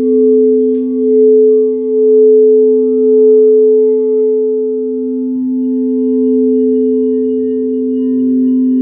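Singing bowls ringing in sustained, steady tones, a low one and a higher one held together, swelling and fading in slow waves; the higher tone shifts slightly in pitch about halfway through.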